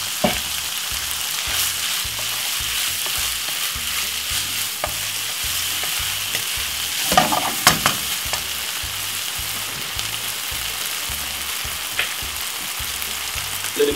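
Minced beef with sweet corn and bolognese sauce sizzling steadily in a frying pan while it is stirred with a wooden spoon, with a few knocks and scrapes of the spoon against the pan, the loudest about halfway through.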